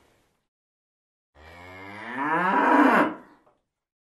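A cow mooing: one long moo starting about a second and a half in, growing louder and rising in pitch toward its end.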